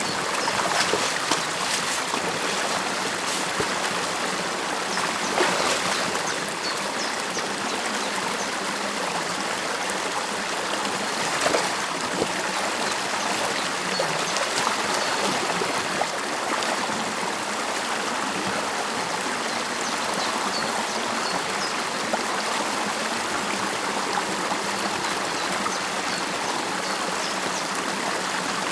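Stream water rushing and trickling steadily through a beaver dam, with a few brief splashes in the first half.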